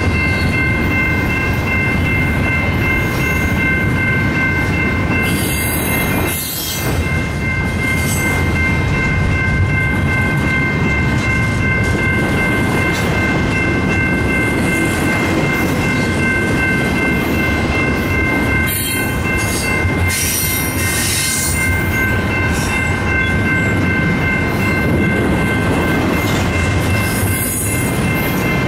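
A long CN double-stack intermodal train's container well cars rolling steadily past, with a continuous heavy rumble of wheels on rail. Several steady high-pitched tones sound over it throughout.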